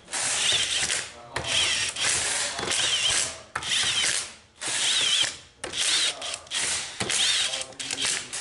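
Impact wrench running down small number 10 bolts on a transmission plate in a string of short bursts of about a second each, hammering with a wavering whine. The bolts are only being drawn snug, not tightened.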